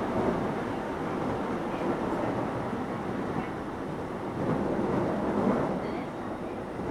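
Keio 7000-series electric train running, heard from inside the passenger car: a steady rumble of wheels on rail and car-body noise.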